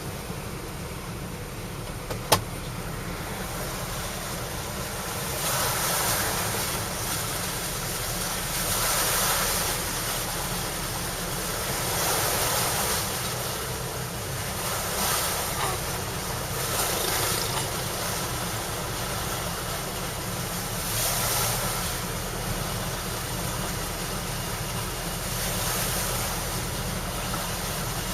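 Vehicles passing one after another along a wet, partly flooded road, each pass a swelling hiss of tyres through water over a steady wash of noise. A single sharp click about two seconds in.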